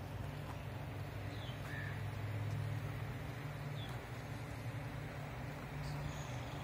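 A few short, high bird chirps, spaced a second or two apart, over a steady low hum.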